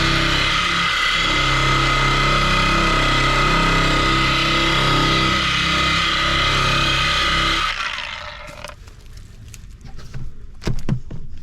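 Electric power tool motor running steadily with a high whine, then switched off and winding down about eight seconds in, followed by a few sharp knocks.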